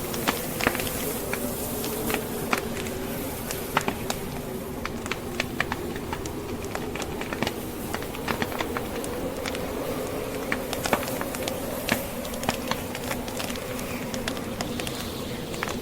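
Log fire crackling, with frequent irregular sharp pops, over a steady low wavering howl of blizzard wind.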